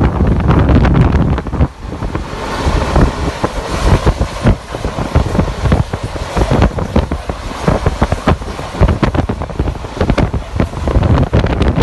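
Heavy wind buffeting the microphone over the low rumble of a moving passenger train.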